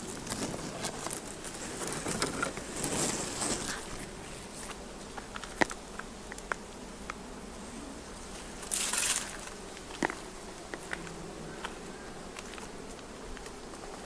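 Outdoor bush ambience with insects buzzing. Short crunching steps on the track come about two to three seconds in and again near nine seconds, with a few sharp clicks between.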